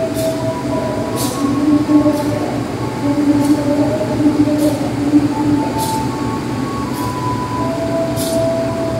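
Passenger train coaches rolling slowly past a station platform: a steady rumble with a few shifting tones, and short sharp ticks every second or so.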